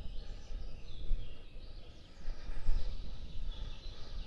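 Wind gusting across the microphone as a low, uneven rumble, with birds singing faintly in the background.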